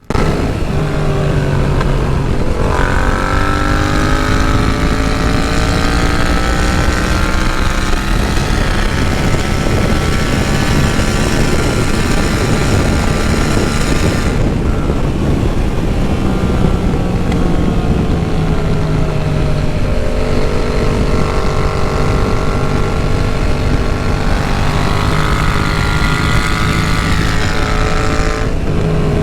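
Yamaha MT-07 parallel-twin engine running on the road. Its pitch climbs slowly as it accelerates, eases about halfway, and holds steadier and lower in the last third, with brief changes about 3 s in and near the end.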